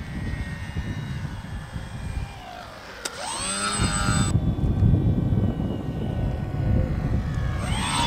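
Radio-controlled model airplane's motor and propeller whining as it flies past, the pitch swinging down and up with its passes, loudest about three seconds in and again near the end. A low rumble of wind on the microphone runs underneath.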